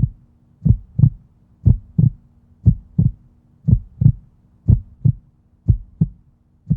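Heartbeat sound effect: a low lub-dub, two thumps close together, repeating about once a second over a faint steady hum.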